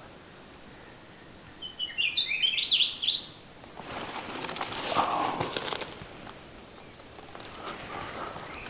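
ʻAkiapōlāʻau singing: one short, quick phrase of high, warbled notes jumping up and down in pitch about two seconds in. A burst of rustling noise follows for about two seconds.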